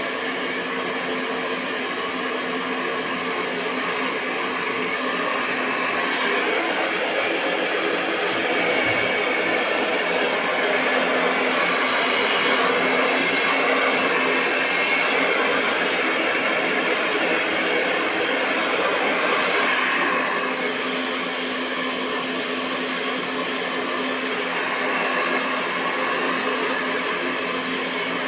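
Hair dryer running continuously: a steady rush of blown air over a constant motor hum, swelling a little louder and softer.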